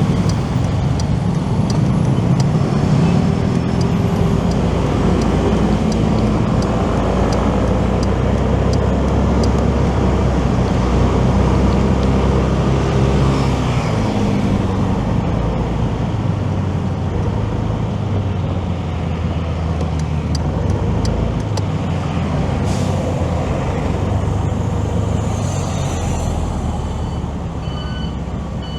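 Motorcycle riding in city traffic: engine running with road noise and nearby vehicles, the low engine hum shifting about halfway through. Short repeated electronic beeps come in near the end.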